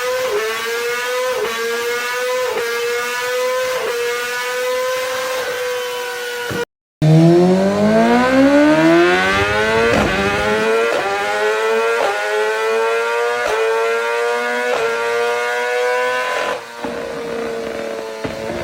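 Sportbike engine accelerating hard at high revs through the gears, its pitch dipping briefly at each quick upshift about once a second. After a short cut about seven seconds in, a second run starts lower, climbs steeply in pitch and shifts up several more times.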